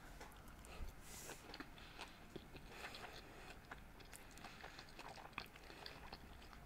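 A person chewing a mouthful of sushi. It is faint, a scatter of small, soft mouth clicks picked up close to the microphone.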